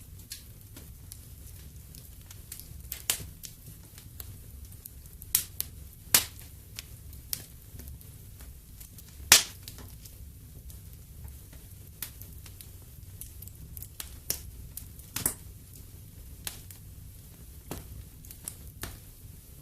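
Wood fire burning in a fireplace, crackling and popping at irregular intervals, with one loud pop about nine seconds in, over a steady low rumble.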